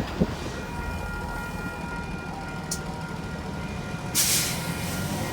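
GO Transit MP40 diesel locomotive and its train running past and moving away: a steady low rumble with faint steady whining tones, and a short hiss about four seconds in.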